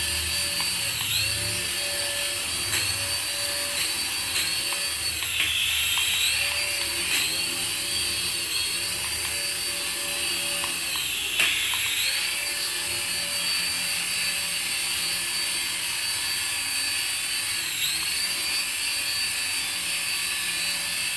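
Small electric motor of a remote-control toy whirring in a continuous high whine, its pitch dipping and climbing back again every second or two as the speed is changed.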